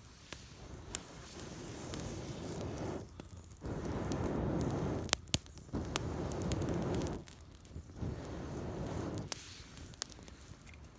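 Open wood campfire burning with sharp crackling pops, the loudest two about five seconds in, over a rushing hiss that swells in several long stretches and drops away between them.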